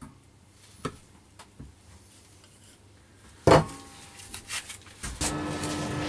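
Metal knocks and clinks from work on a welded steel tube frame: a few light taps, then one loud sharp knock about three and a half seconds in and a few smaller knocks after it. Background music starts near the end.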